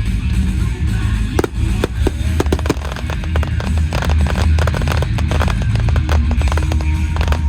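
Fireworks crackling over show music with a strong bass: a few sharp pops about one and a half seconds in, then a dense, rapid crackle from about three seconds in.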